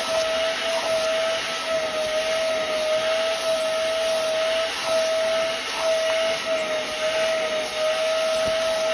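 Hoover CleanSlate portable carpet and upholstery spot cleaner running steadily, its suction motor giving a high whistling whine over a rushing hiss of air and water being drawn up.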